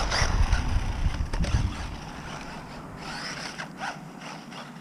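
Small WLtoys 1/18 electric short course RC truck crashing off a jump: it scrapes and clatters for the first second or so, then faint short whirs of its electric motor as it drives on.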